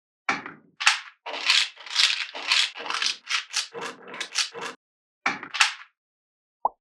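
Small magnetic balls rattling and clicking against one another as they are handled, in a quick run of short rattly bursts, a few a second. The bursts stop about a second before the end, and a brief tonal pop follows near the end.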